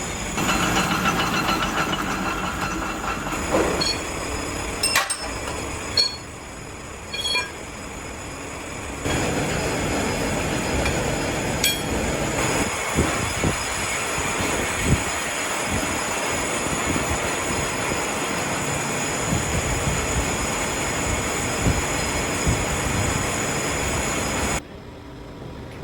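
Metalworking shop machinery running steadily, with a few sharp metal clinks between about 4 and 12 seconds. The noise changes abruptly about 9 seconds in and drops shortly before the end.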